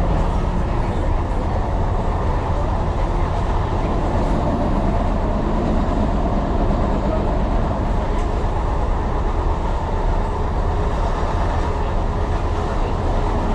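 Tyne and Wear Metro train running at a steady speed, a continuous low rumble of wheels on the rails and running gear, heard from inside the train.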